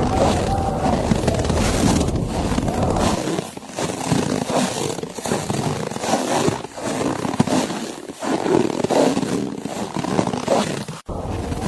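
Blizzard wind blowing in uneven gusts, with snow crunching in irregular steps. The deep rumble drops away about three seconds in and comes back after a brief dropout near the end.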